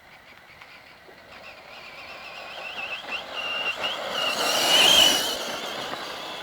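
Modified Kyosho Outlaw Ultima RC racing truck driving past: its electric motor and gears give a high, wavering whine, with tyre noise under it, growing louder, loudest about five seconds in, then fading as it moves away.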